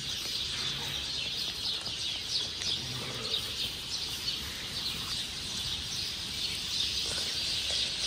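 Birds chirping in a dense, continuous chorus of short, high chirps.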